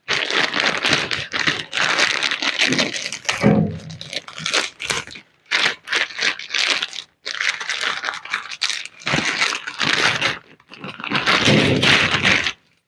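Plastic packaging crinkling and tearing in irregular bursts as the cover holding a set of replacement washing-machine suspension springs is opened and handled.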